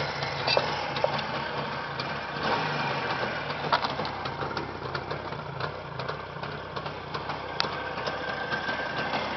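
Jawa motorcycle's new two-stroke engine idling steadily, with light ticks over the engine note.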